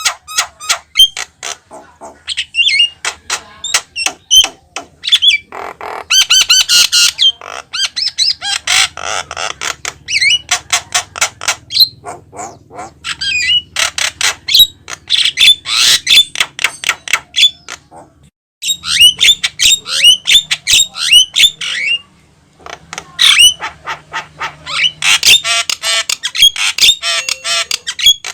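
Javan myna singing a long, rapid run of harsh squawks, clicks and whistled notes, with a brief pause about two-thirds of the way through.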